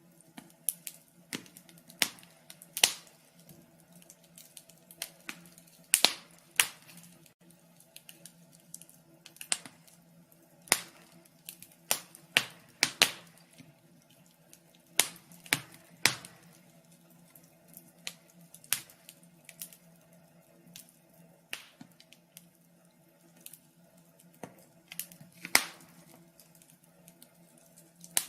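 A fire crackling, with irregular sharp pops and snaps, a few much louder than the rest, over a faint steady low hum.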